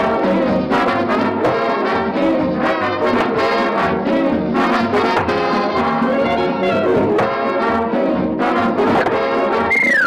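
Orchestral cartoon music led by brass, with trombones and trumpets playing busy, shifting phrases. Right at the end a high sliding tone drops steeply in pitch.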